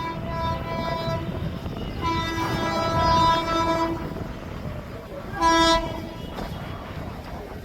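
Indian Railways train horn sounding three times: a blast at the start, a long blast of about two seconds, then a short one, over the low rumble of the approaching train.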